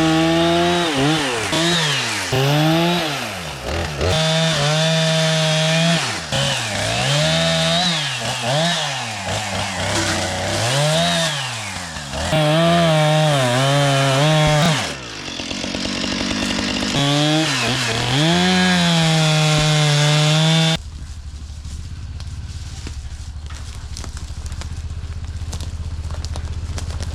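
Chainsaw cutting up a felled cedar tree, the engine revving up to long steady full-throttle stretches and dropping back again and again as it works through the wood. About twenty seconds in it stops abruptly, leaving only a low steady rumble.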